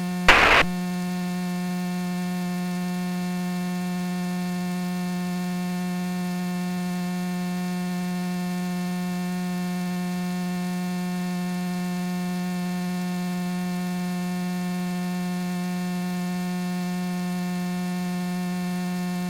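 Steady electrical hum on the aircraft's radio and intercom audio feed, holding one constant pitch with a ladder of overtones and no change in level. A brief louder burst of radio sound comes right at the start.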